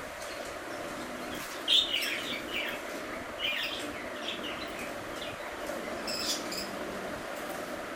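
Budgerigars chirping in short, scattered calls, the loudest about two seconds in, over a steady background hum.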